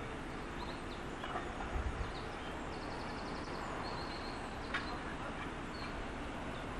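Small birds chirping in short high calls, with a quick trill about three seconds in, over a steady low outdoor rumble.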